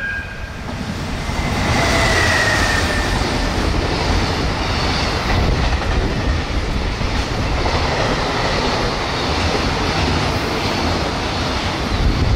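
Container freight train hauled by an EF210 electric locomotive passing at speed, about 98 km/h: a steady rush of wheel and rail noise with clickety-clack from the wagons. A faint falling whine comes about two seconds in.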